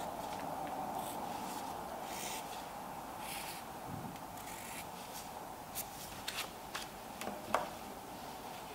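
Scissors cutting through folded mask-filter material: a series of short rasping cuts, then several sharp clicks in the second half as the blades snip and handle the pieces.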